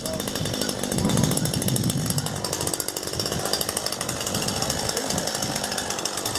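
Chainsaw running steadily, getting louder about a second in.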